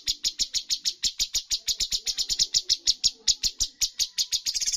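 Cucak cungkok song: a fast, unbroken run of sharp chip notes, about nine a second, the rapid-fire 'tembakan' burst that bird fanciers prize.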